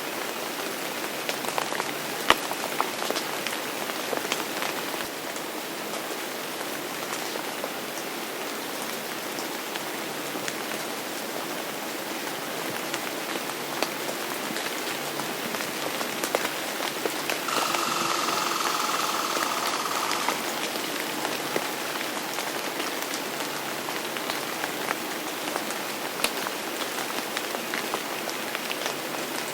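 Steady rain falling on a surface, with many individual drops tapping through it. About two-thirds of the way through, a higher sound carrying a steady tone rises over the rain for about three seconds.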